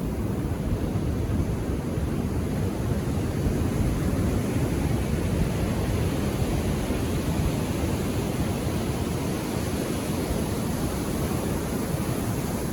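Ocean surf washing on the shore: a steady, low rushing noise that swells slightly around the middle.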